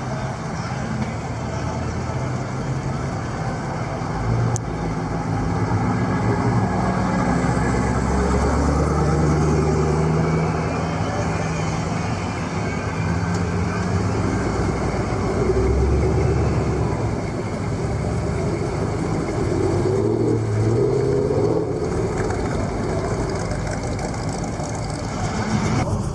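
Car engines running low and steady as cars cruise slowly past, their pitch shifting now and then, with people's voices in the background.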